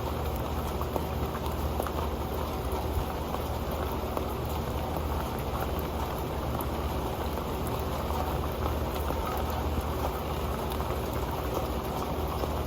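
Rain falling on an old pan: a dense, steady patter of drops striking its surface.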